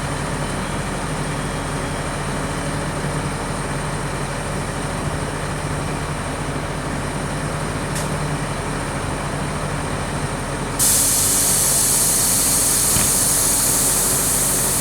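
Truck engine running steadily; about two-thirds of the way through a loud air hiss starts abruptly and keeps going.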